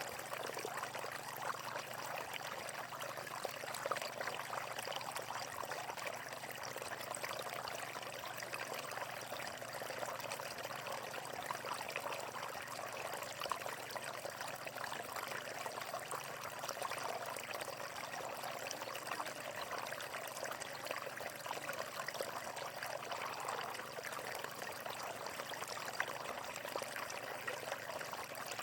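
Running water splashing and gurgling steadily, a constant natural water flow.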